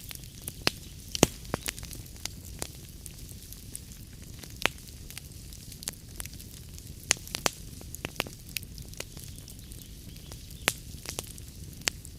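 Log fire crackling: irregular sharp pops and snaps over a steady low rumble and hiss, the loudest pop about a second in.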